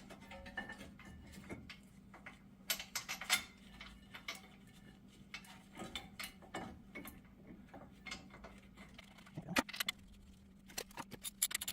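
Steel brake pads and their spring clips clinking and clicking as they are handled and fitted into a brake caliper bracket. There is a louder cluster of clinks about three seconds in and a quick run of clicks near the end, over a faint steady hum.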